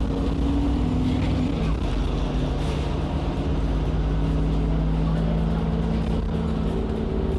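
Alexander Dennis Enviro 400 double-decker bus with a Voith automatic gearbox, heard from inside the cabin while under way: a steady low engine rumble with a few held drivetrain tones that shift in pitch now and then.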